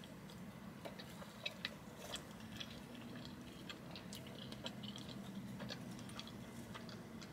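Faint close-up chewing of a soft breadstick, with small mouth clicks scattered throughout and a faint steady low hum underneath.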